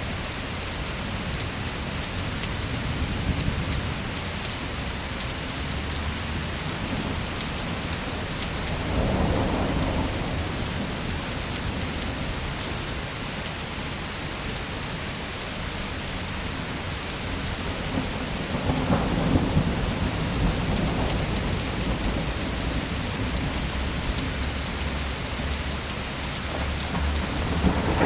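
Steady heavy rain hissing, with low rolls of thunder rumbling twice, about a third of the way in and again about two-thirds in.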